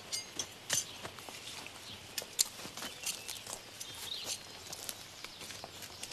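Hands and a small hand tool scraping and digging in dry garden soil to open up a mole's run: irregular scratches and small clicks of crumbling earth and stones.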